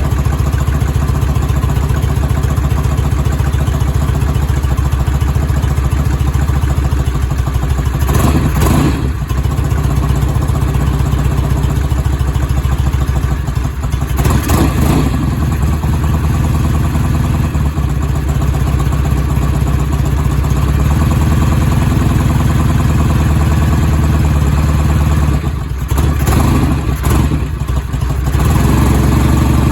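1971 Norton Commando's 750 cc air-cooled parallel-twin engine running steadily just after a cold start, warming up after months of sitting. Its note changes briefly three times, at about 8, 14 and 26 seconds in.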